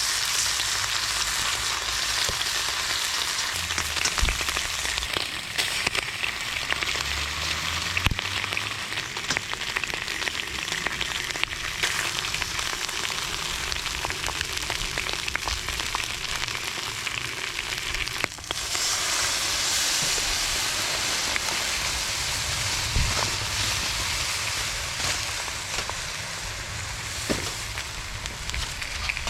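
Wood campfire burning, crackling with many scattered pops over a steady hiss.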